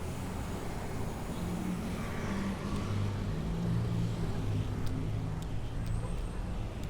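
Street traffic: a motor vehicle's engine running close by, its hum strongest in the middle of the stretch, over a steady low rumble of road noise.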